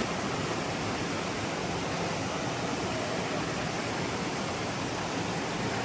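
Waterfall's water rushing, a steady even hiss with no change in level.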